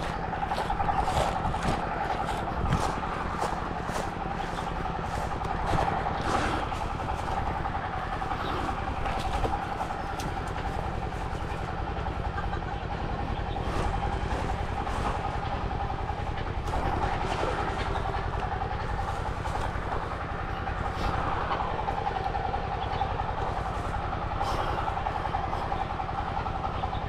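A steady engine-like drone with a constant hum, and scattered short clicks over it.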